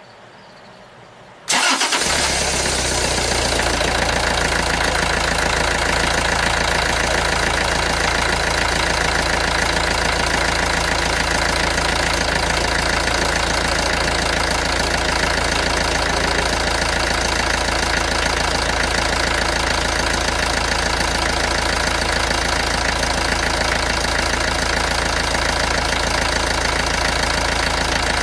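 Toyota four-cylinder diesel engine starting up about a second and a half in, then idling steadily.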